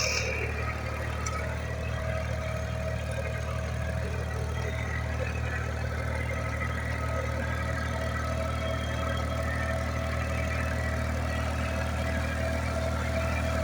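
Engine of an International 45 hp farm tractor running at a steady speed while ploughing, with a steady whine above the low engine drone.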